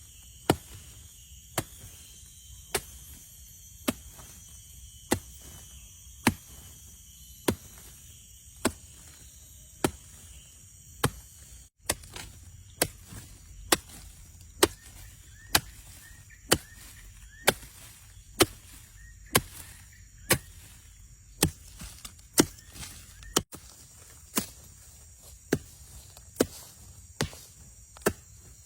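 Steady chopping blows on wood, one sharp strike about every second, with insects chirring steadily in the background.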